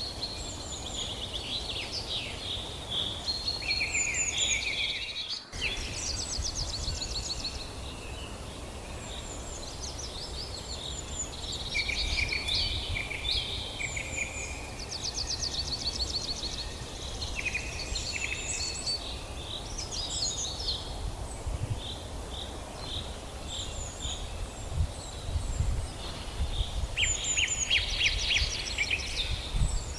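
Several songbirds calling together in a forest, overlapping chirps and fast trills, over a low rumble. A brief dropout about five seconds in.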